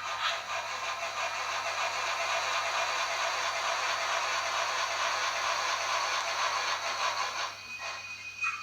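Steam sound effect from the Tsunami sound decoder of an HO-scale Bachmann Shay model, played through its small speaker: a steady hiss of steam and exhaust that cuts off after about seven and a half seconds. A steam whistle starts near the end.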